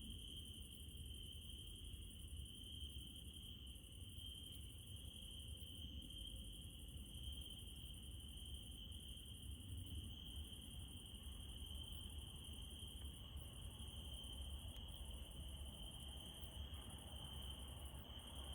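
Crickets chirping in a continuous steady trill, faint, over a low steady rumble.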